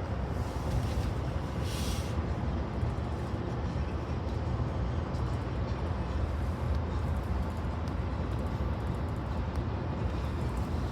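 BNSF freight train rolling past: a steady low rumble, with a short hiss about two seconds in.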